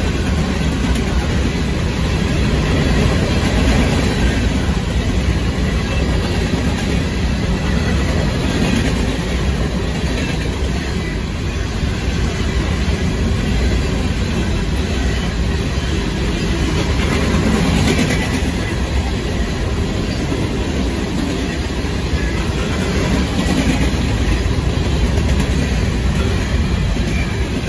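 Union Pacific grain train's covered hopper cars rolling past at speed, a steady rumble of steel wheels on the rails.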